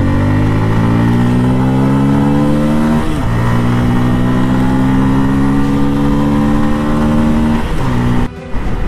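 Motorcycle engine pulling under acceleration, its pitch climbing steadily. It drops at a gear change about three seconds in and again near the end, and the sound breaks off briefly just before the end.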